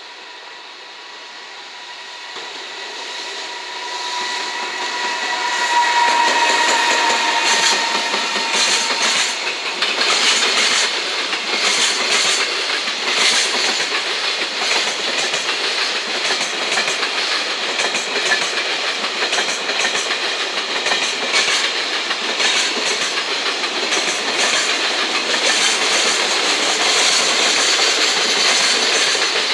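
JR Freight EF210 electric locomotive passing at the head of a container freight train. A whine grows louder as the locomotive comes close and fades about eight seconds in. After that, loaded container flatcars roll steadily past with wheels clicking over the rail joints.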